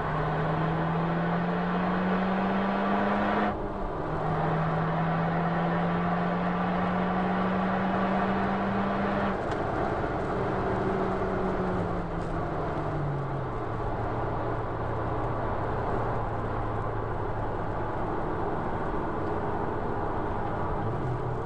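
Honda Civic Type R FK2's turbocharged 2.0-litre four-cylinder engine, heard from inside the cabin, accelerating through an upshift about three and a half seconds in and pulling again. From about twelve seconds in the revs fall, and the engine then runs at a steady lower note.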